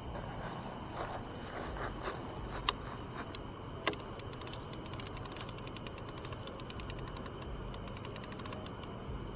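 Fishing reel clicking: two sharp clicks, then a quick run of rapid light ticks about halfway through. Under it runs a steady high-pitched drone.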